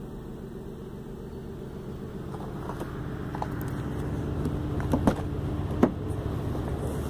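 2015 BMW M4's twin-turbo straight-six engine idling steadily, growing a little louder partway through, with a couple of sharp clicks near the end.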